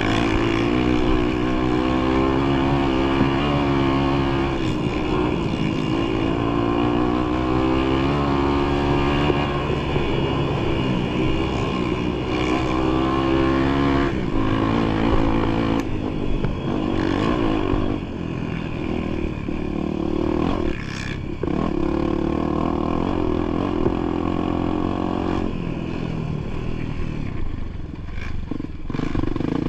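Motorcycle engine running under way on a trail ride, its pitch rising and falling with the throttle.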